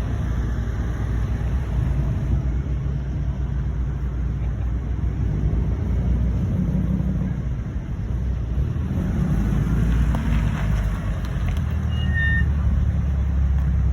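Low, steady rumble of car engines running.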